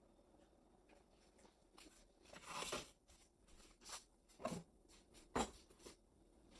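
Faint kitchen handling sounds: a few soft, scattered knocks and a short scrape as utensils and cookware are moved about.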